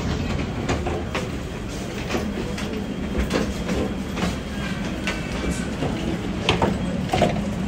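Train running on its rails, heard from inside the carriage: a steady low rumble with a hum and scattered clicks and clacks.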